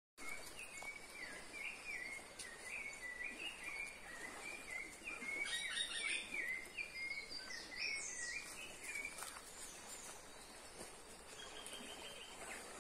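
Small birds singing in waterside woods: one bird repeats a short chirping note about twice a second for most of the stretch, stopping near the end, and a few higher calls from other birds join around the middle.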